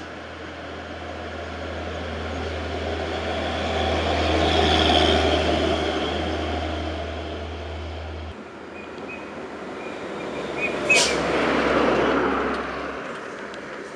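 Two road vehicles passing close by, one after the other, each sound rising and fading away. A sharp knock is heard as the second one goes by.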